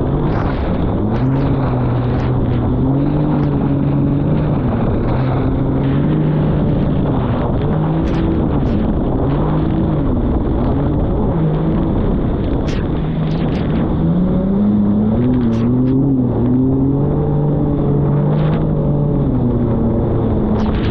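Jet ski engine running under way, its pitch rising and falling repeatedly as the throttle changes, over a steady rushing noise.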